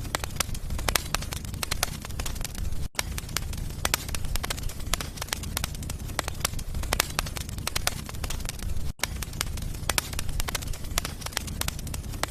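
Fire in a fireplace crackling: dense irregular snaps and pops over a steady low rumble.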